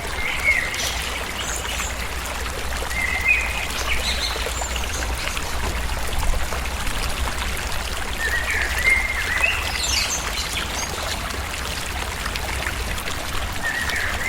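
Forest ambience: water trickling steadily, with short bird chirps coming and going several times.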